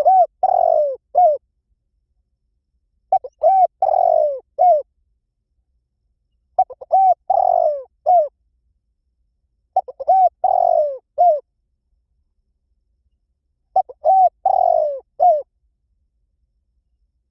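Spotted dove cooing its song five times, about three and a half seconds apart. Each phrase is a couple of short coos, then a longer falling coo and a short final note.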